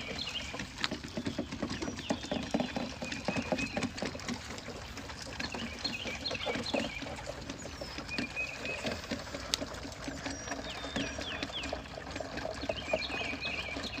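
Kid goats suckling milk from feeding bottles: rapid, irregular wet sucking and smacking.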